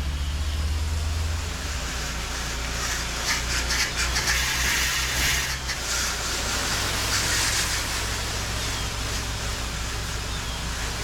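Gas-engine pressure washer running steadily, with bursts of high-pressure water spray hissing, loudest about three to six seconds in and again briefly around seven seconds.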